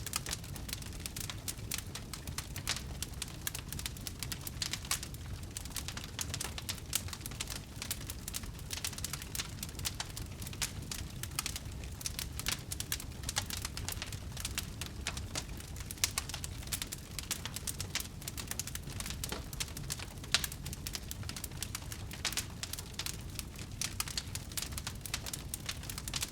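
Wood fire crackling: a dense, irregular stream of small pops and snaps over a low, steady rumble, with a few louder pops now and then.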